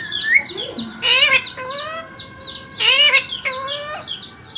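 Indian ringneck parrot giving a run of short, high-pitched chirps and calls that sweep up and down in pitch, with the loudest bursts about a second in and about three seconds in.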